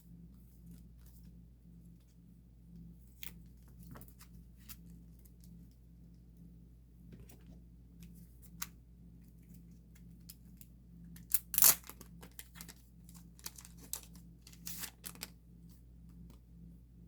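Photocards and their plastic sleeves being handled: scattered crinkling and rustling, with a short loud tearing burst about eleven and a half seconds in and more rustles around fifteen seconds, over a low steady hum.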